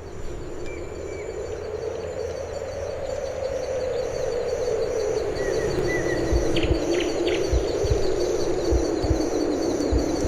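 Bird chirps and a steady pulsing insect trill over a low sustained drone, with soft low thumps setting in about six seconds in.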